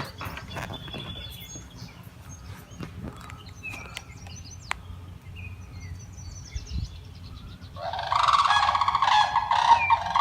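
Sandhill cranes break into a loud chorus of calls near the end, several birds together and continuing without a break. Before that there are only faint chirps of small birds over a low rumble.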